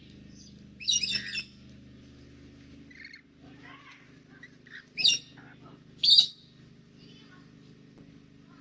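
Birds calling: three loud, harsh squawks, about a second in, at about five seconds and at about six seconds, with softer chirps between them, over a faint low steady hum.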